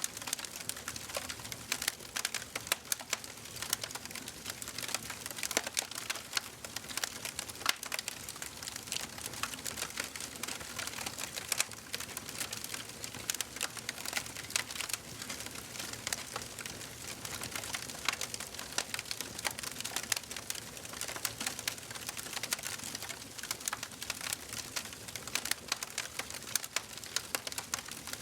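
Wood fire burning in a fireplace, crackling with a dense, irregular run of sharp pops and snaps over a soft steady hiss.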